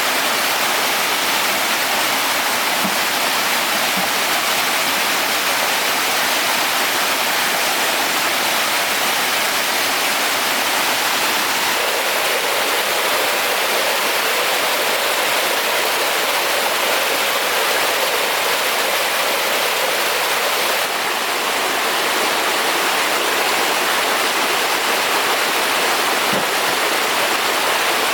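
Steady rushing of flowing water, an even hiss that barely changes, with a few faint ticks.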